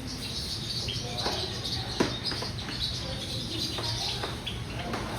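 Captive birds chirping continuously, with a sharp click about two seconds in.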